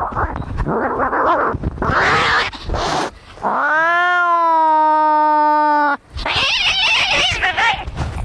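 Cats fighting: harsh, noisy screeching, then one long yowl that rises and holds steady for about two seconds before cutting off suddenly, then more harsh screeching.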